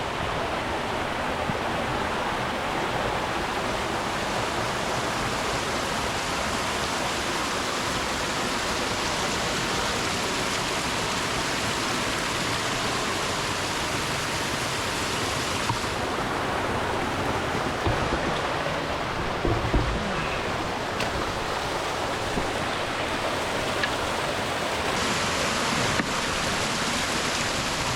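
Stream water rushing over rocks in a steady, even wash, its tone shifting slightly a little past halfway and again near the end. A few dull low knocks come about two-thirds of the way through.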